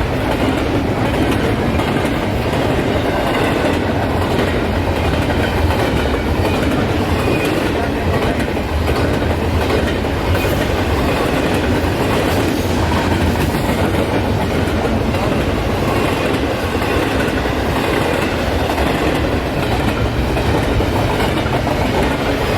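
A train rolling steadily past at close range, its cars' wheels running over the rails.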